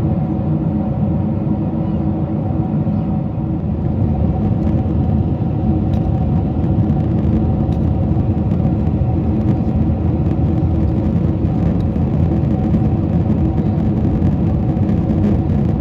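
Steady cabin noise inside a Boeing 747-400 airliner during descent: a constant rumble of airflow and engines with a few steady low hums.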